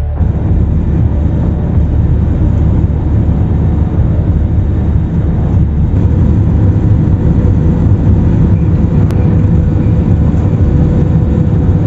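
Steady cabin noise of an airliner in flight or on its landing run, heard from inside the passenger cabin, with a faint steady whine and one brief click about nine seconds in.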